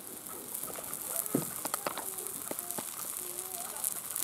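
Obbattu (holige) frying on a hot iron tawa: a steady high sizzle with scattered crackles and clicks, the sharpest about a second and a half in.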